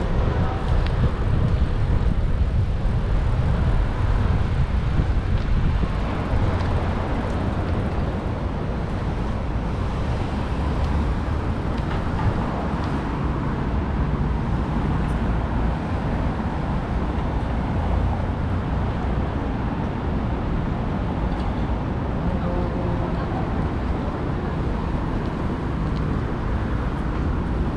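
Steady city street traffic noise, a continuous low rumble of cars, heard from a bicycle in motion.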